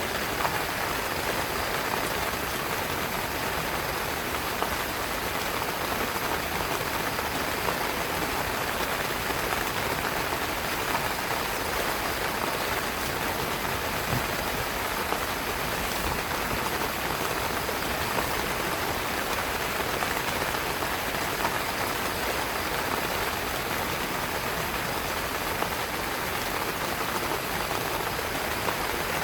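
Heavy rain falling steadily on a tent, an even, unbroken hiss of many drops.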